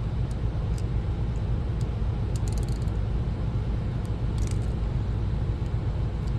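A steady low rumble throughout, with light, sharp clicks scattered through it, a few close together about two and a half and four and a half seconds in, from a small tool working the pivot screw of a pair of scissor-type hair shears being taken apart.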